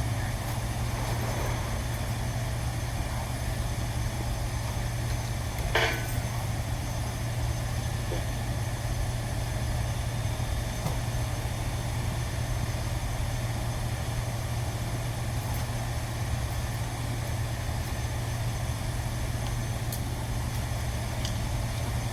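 A steady low mechanical hum of running machinery, with a single sharp knock about six seconds in.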